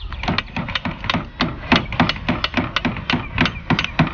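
Several hammers striking nails into the wooden pieces of a kit birdhouse, many sharp knocks in quick, irregular, overlapping succession.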